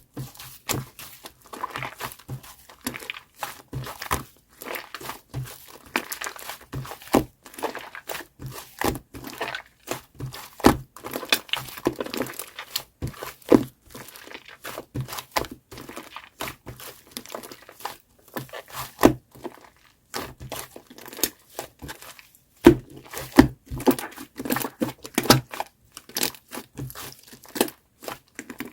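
Shaving-foam slime being kneaded and stretched by hand: dense, irregular crackling with many small clicks and pops as air pockets in the foam burst. There is a brief lull about 20 seconds in.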